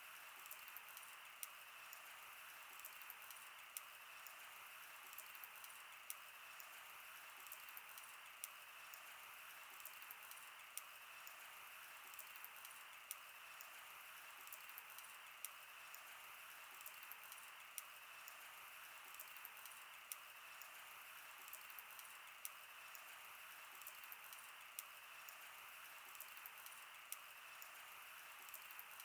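Wood fire crackling, with sharp snaps and pops at irregular intervals over a steady soft hiss.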